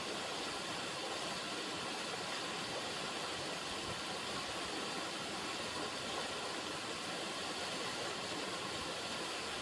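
River water running steadily, a constant even rush with no breaks.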